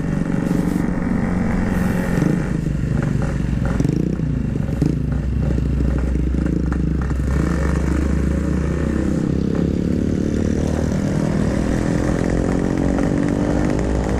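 Yamaha RX-King two-stroke single-cylinder motorcycle engine running steadily under way, its revs climbing over the last few seconds.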